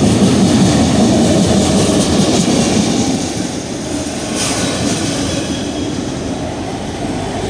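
Freight train rolling past close by: a steady, loud rumble of the cars' wheels on the rails.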